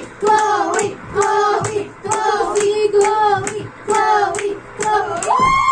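Children singing a song together, with hand claps keeping a steady beat.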